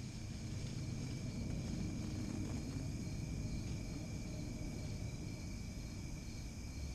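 Steady chorus of crickets and other insects, made of several unbroken high-pitched trills, over a low rumble.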